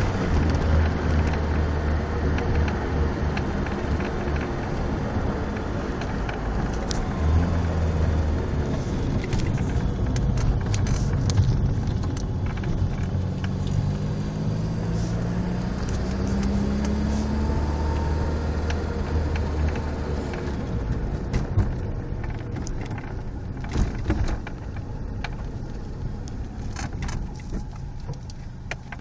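Honda Accord engine running with a nasty exhaust leak, a deep steady rumble. About halfway through the engine note rises, and in the last third the rumble drops back to a quieter level.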